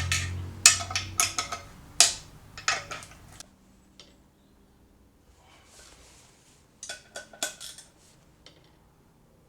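Metal parts clinking and knocking together as clutch hardware is handled and fitted: a quick run of sharp hits over the first three seconds or so, then another cluster about seven seconds in.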